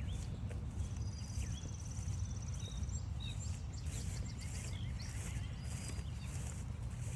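Footsteps along a trail over a steady low rumble, with several birds singing: a rapid high trill lasting about two seconds early on and a quick run of short chirps in the middle.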